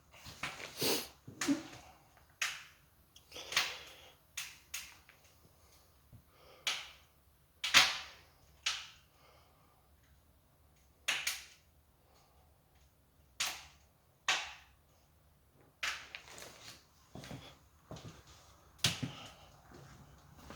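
Firewood crackling and popping as it burns in a cast-iron wood stove: sharp, irregular cracks a second or so apart, the loudest about eight seconds in.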